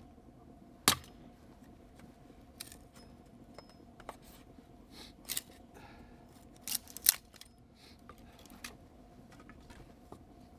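A series of sharp, separate clicks and snaps: the loudest about a second in, two close together around seven seconds in, and a few fainter ones between.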